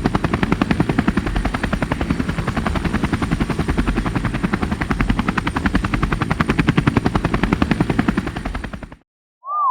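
Rapid, even chopping pulses that run steadily and cut off abruptly near the end.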